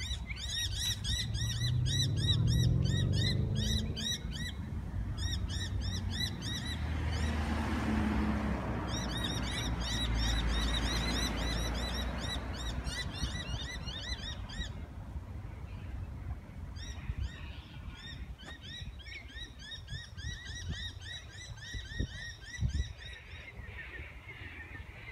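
A bird calling in long runs of rapid, repeated high chirps, which break off about two-thirds of the way through and start again. Underneath, a low rumble swells and fades during the first half.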